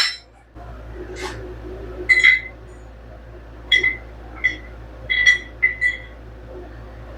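A series of short metallic clinks as cut steel pieces are handled and set down against metal. Each clink rings briefly at a clear pitch, several coming in quick pairs.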